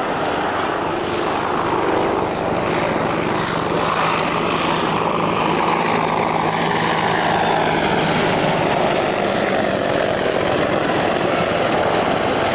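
Aircraft flying past, its engine note falling in pitch as it goes by, with a steady low drone underneath.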